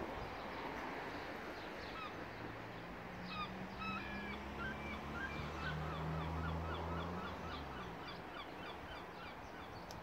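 Birds calling in a quick series of short chirps over a steady outdoor background hiss. A low hum swells under them around the middle and fades away.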